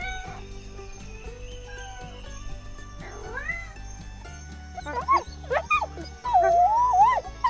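A domestic cat meowing faintly over soft background music. In the second half a grey wolf gives a run of sharp yips, then a short, wavering howl.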